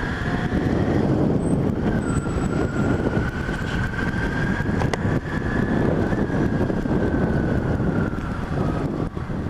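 Motorcycle riding at speed: wind buffeting the microphone over steady engine and road noise, with a faint whine that drifts slightly up and down in pitch.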